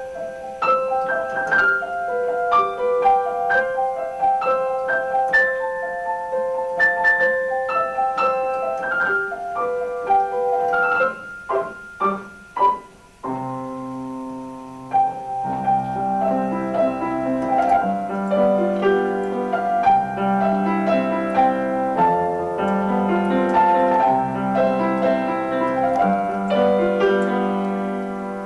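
Piano music: a melody of single notes over held notes, then, from about halfway in, fuller chords with a low bass line.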